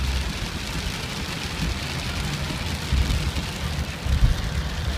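Rain falling as a steady hiss, with an uneven low rumble underneath that peaks about three and four seconds in.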